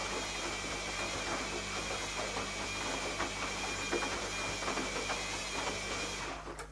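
Zanussi ZKN7120L washing machine running mid-cycle: a steady rushing noise with a faint high whine and small crackles, which stops about six seconds in, followed by a single click.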